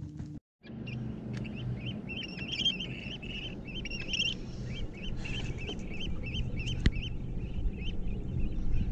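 Birds calling across open water: a dense run of short, quick chirping calls over a low steady hum.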